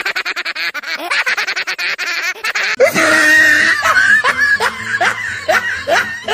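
Comedy laughter sound effects: a rapid, pulsing giggle, then, from about three seconds in, a different laugh in repeated falling notes.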